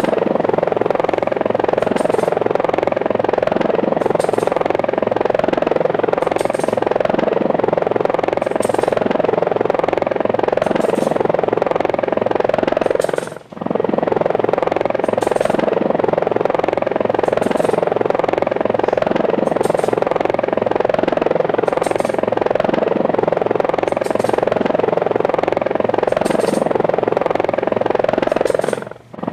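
Steady helicopter rotor noise, dropping out for a moment about halfway through and again near the end.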